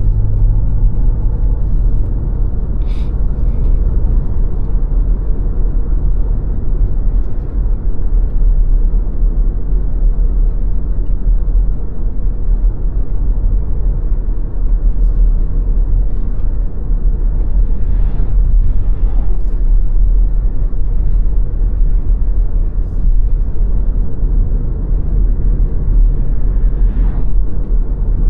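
Steady low road rumble of a car driving, mostly tyre and road noise with no revving. A few faint short higher sounds break through briefly, a few seconds in, about two-thirds of the way through, and near the end.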